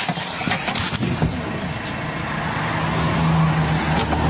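Road vehicle noise: a motor vehicle engine running with traffic noise, a steady low engine hum coming in about halfway through.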